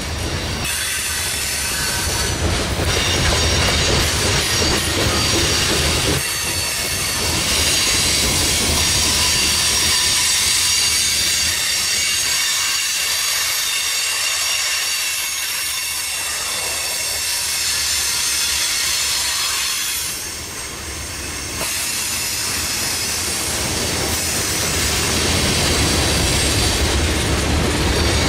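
Freight train rolling past on the rails, its wheels clattering over a low rumble, with a steady high-pitched squeal from the wheels on the rail.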